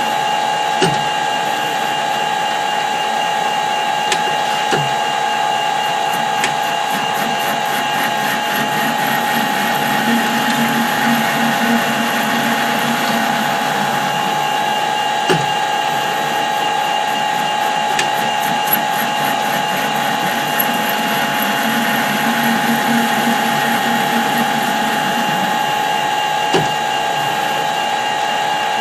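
Metal lathe running steadily while a cutting tool takes a light cut on tough steel, with a few sharp clicks along the way.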